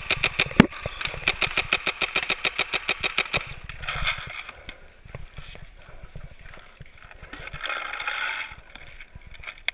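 A paintball marker firing a rapid string of shots, about ten a second, which stops after roughly three and a half seconds. Two short bursts of hissing noise follow, one about four seconds in and one near the end.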